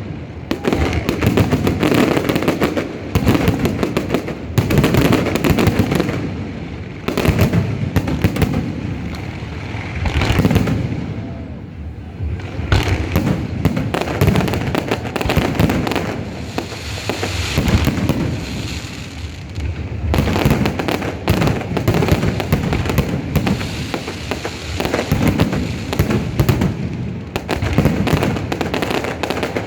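Aerial fireworks display: a dense, continuous barrage of booming bursts and crackling, with brief lulls.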